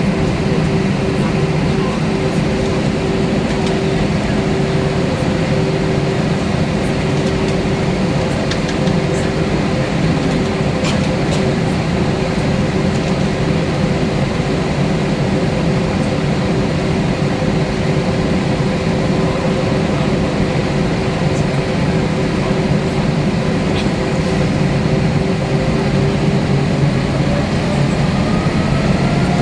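Cabin noise of an Airbus A320-232 with its IAE V2500 engines running: a steady hum with a steady whine. Near the end the engine whine begins to rise as thrust is brought up.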